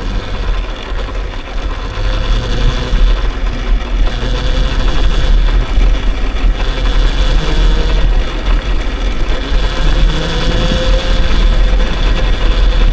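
Riding noise from a dirt bike on the move: a heavy rumble of wind buffeting the microphone, with a steady thin whine underneath.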